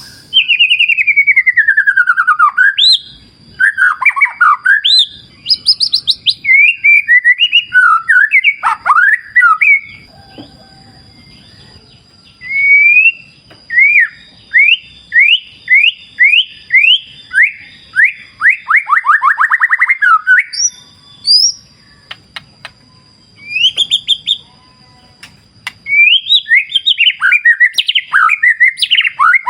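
White-rumped shama (murai batu) singing a loud, varied song of clear whistles. It opens with a long falling whistle, and in the middle there is a run of quick rising notes that speeds up. After a short pause the song picks up again near the end, with a steady thin high tone behind it.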